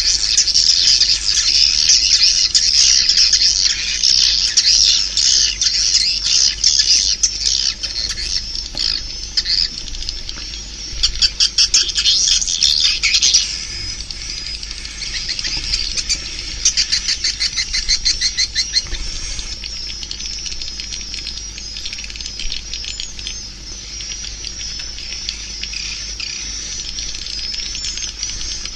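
Swiftlet calls: a dense, high-pitched twittering chatter, with fast trains of clicks about eleven seconds in and again around seventeen seconds. It is busier and louder in the first half and thinner after that.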